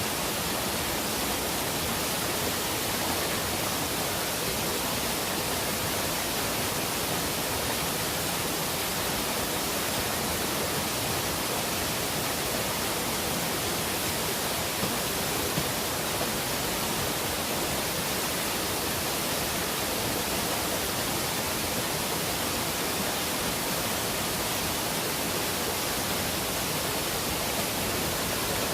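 Waterfall roaring, a steady rush of falling water.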